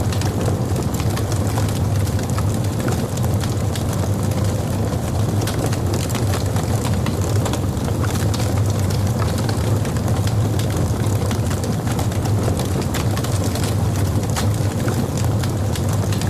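Logs burning in a fireplace: a steady low rumble of the fire with frequent small crackles and pops scattered throughout.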